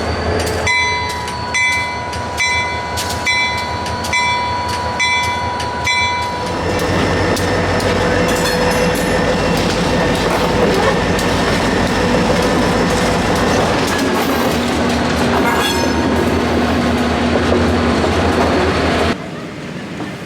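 A train at the platform: a bell rings in a steady rhythm, about once a second, for the first six seconds. Then the train's louder steady rumble and hiss runs on and cuts off suddenly near the end.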